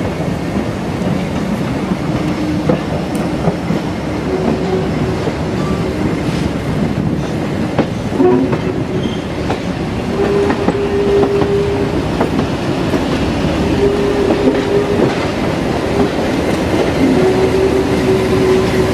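A heritage diesel-hauled train running: a steady loud rumble with rail joints clicking and a pitched hum that comes and goes.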